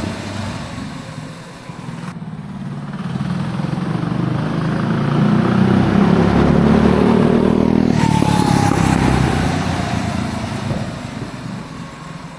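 Small single-cylinder minibike engine, breathing through a header pipe and a dirt bike slip-on muffler, running loud and building in revs for several seconds, then dropping back as the throttle is let off about eight seconds in.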